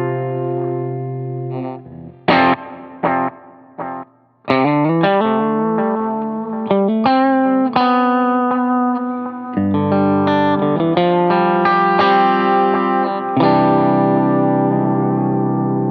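Fender Stratocaster electric guitar played through a Boo analog delay pedal and a Line 6 HX Stomp amp model, with light overdrive. A held chord fades out, a few short muted stabs follow, and then a melodic line of single notes and chords rings on with repeating echoes, with two fuller chords struck in the second half.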